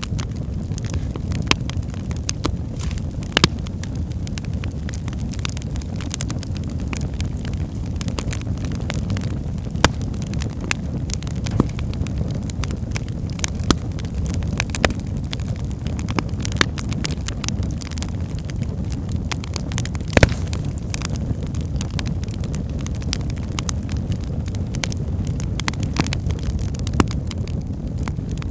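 Wood fire burning in a fireplace: a steady low rumble of flames with irregular crackles and pops of burning logs, a few sharper pops standing out.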